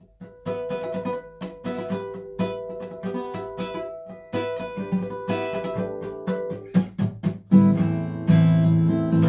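Sire A3 six-string acoustic guitar playing the song's instrumental intro. It starts with single picked notes and gives way to louder strummed chords about three-quarters of the way through.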